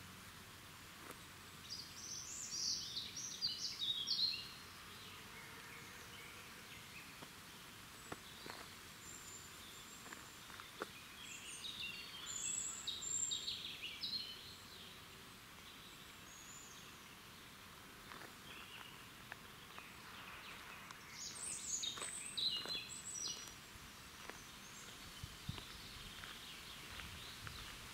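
A songbird singing a short high-pitched phrase three times, roughly every nine to ten seconds, over a faint steady background hiss.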